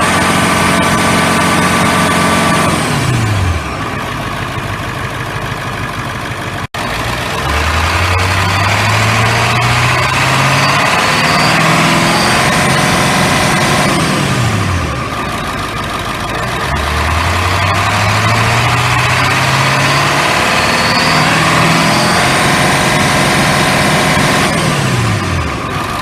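International T444E turbo-diesel V8 being revved again and again. Its speed climbs over a few seconds, holds high for several seconds with a thin high whine over the engine note, then falls back to idle. It comes down three times and goes up twice.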